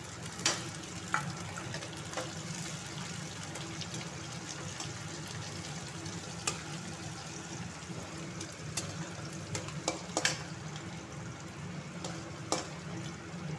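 Chopped green chillies, browned onion and garlic sizzling in hot oil in a metal kadai, stirred with a perforated metal spatula. The spatula gives several sharp clinks against the pan.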